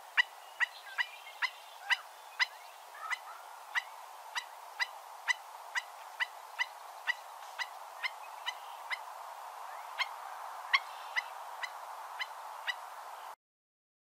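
A bird calling repeatedly: short, sharp yips at about two a second over a steady hiss, with a brief pause near the two-thirds mark, cutting off suddenly near the end.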